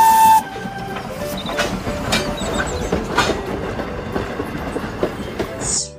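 Passenger coaches of a steam excursion train rolling past at a level crossing, their wheels clattering irregularly over the rail joints. A steady high whistle tone stops about half a second in.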